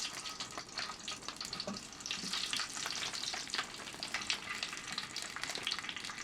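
Food sizzling and crackling in hot oil in a frying pan, a steady hiss dotted with quick pops.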